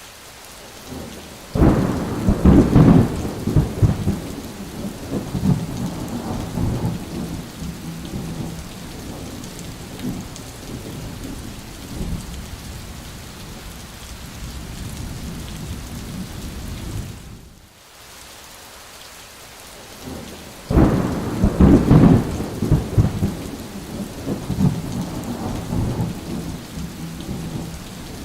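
Steady rain falling, with two long rolls of thunder: one about two seconds in and another about twenty seconds in, each rumbling and fading over several seconds.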